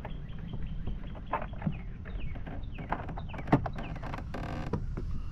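Scattered clicks, taps and knocks of handling on a plastic fishing kayak, with a few short falling chirps in the middle and a quick run of rapid clicking near the end.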